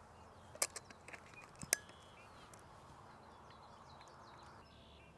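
A few sharp, isolated clicks in the first two seconds, the loudest just under two seconds in. Faint bird chirps sound over a quiet outdoor background.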